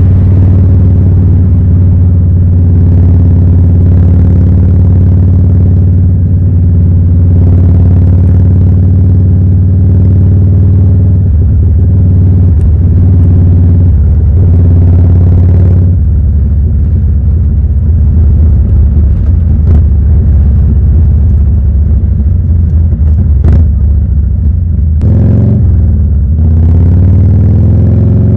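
Harley-Davidson Evolution 1340 air-cooled V-twin engine running under way with a steady low note. The pitch shifts in the middle and falls and rises again near the end.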